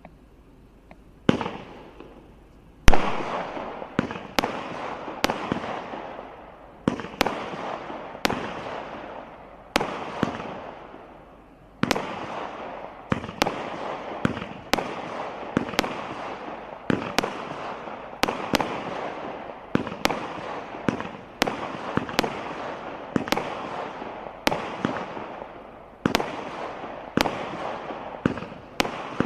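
Display fireworks firing in a continuous barrage: a sharp bang roughly every second, each trailing off over about a second. The loudest bang comes about three seconds in.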